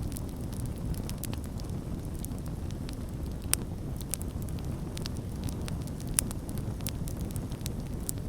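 Wood fire burning with a steady low roar and frequent sharp crackles and pops, two louder snaps standing out about three and a half and six seconds in.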